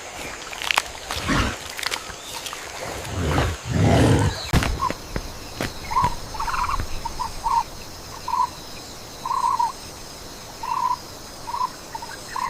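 Wild animal calls: a loud, deep call about four seconds in, then a run of short, evenly repeated calls to the end, with a few sharp cracks near the start and a steady high-pitched drone over the second half.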